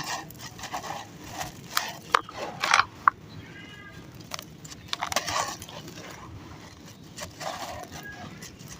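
Sand-cement chunks crumbling and dropping into water, in irregular crackling bursts with sharp clicks. A cat meows once, briefly, about three and a half seconds in.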